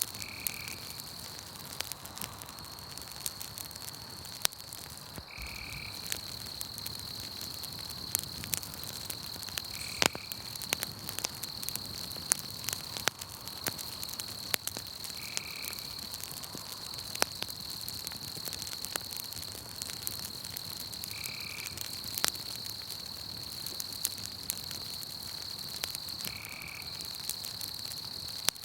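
Campfire crackling with scattered sharp pops, over a steady high-pitched insect trill. A short animal call, frog-like, repeats about every five seconds.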